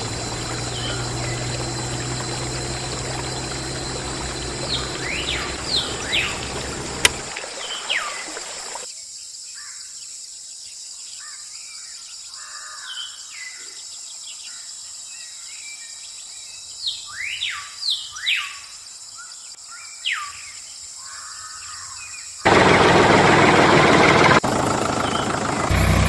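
A small DIY water pump runs with a low hum and water pouring, and stops after about eight seconds. Then birds chirp with quick falling calls, and near the end a loud, steady rush of noise sets in suddenly.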